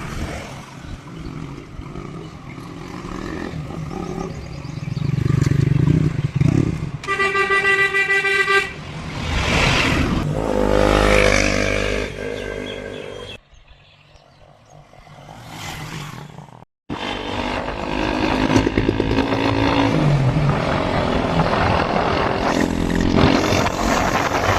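KTM Duke 125's single-cylinder engine running as the motorcycle rides along, its pitch rising and falling with the throttle. A horn sounds once, for about a second and a half, some seven seconds in. Partway through, the engine sound drops low for a few seconds, then cuts off abruptly and comes back with wind noise.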